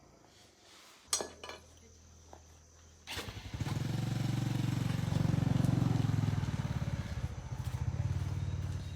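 A sharp click about a second in. Then, about three seconds in, a small engine of the motorcycle kind comes on abruptly and runs with a fast pulsing beat, swelling and then easing off near the end.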